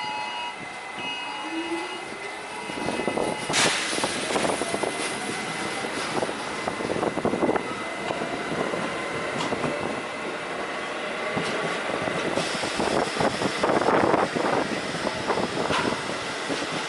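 New York City subway train in motion. A rising motor whine in the first two seconds gives way, from about three seconds in, to steady wheel clatter over the rails with repeated sharp clicks and knocks.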